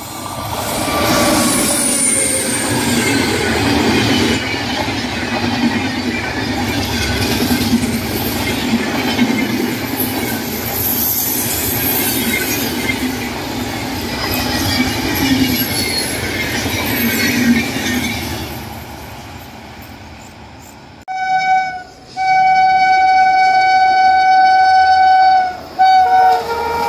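An Indian Railways passenger train running past at speed on a curve: a steady rumble and rattle of wheels on track with faint wheel squeal, fading away after about eighteen seconds. About twenty seconds in, a locomotive horn sounds: a short blast, a long blast of about three seconds, then another short blast, and a lower-pitched horn note starts right at the end.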